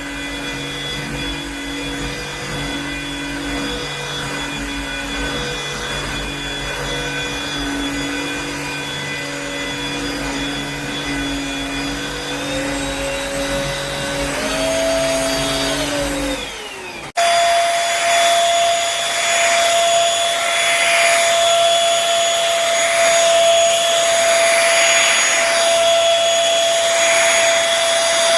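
Cordless stick vacuum's motor running with a steady whine. About twelve seconds in, its pitch rises, then falls away; a little later the sound cuts sharply to a louder, higher steady whine.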